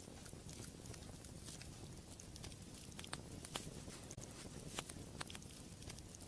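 Fireplace fire crackling: a low steady rumble of flames with scattered sharp pops, a few louder pops in the second half.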